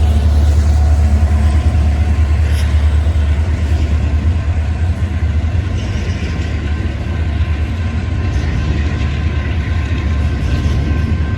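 Train rolling past on the track: a loud, steady low rumble of wheels on rail that eases off slightly in the second half.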